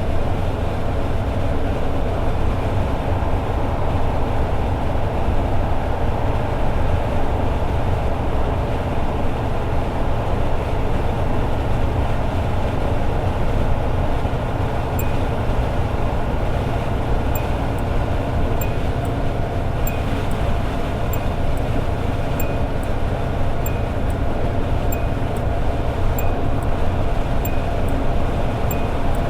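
Toyota AE86 Sprinter Trueno's 4A-GE engine and road noise holding steady at highway cruising speed. From about halfway through, a faint regular ticking joins it about one and a half times a second.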